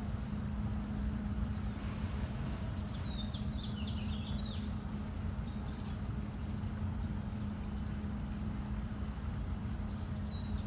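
A songbird sings a quick run of short, falling chirps a few seconds in, with one more chirp near the end, over a steady low hum and rumble.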